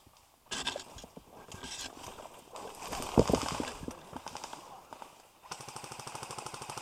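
Airsoft electric guns firing full-auto bursts, each a rapid, even clatter of shots, with a single louder knock about three seconds in. A longer steady burst starts about five and a half seconds in.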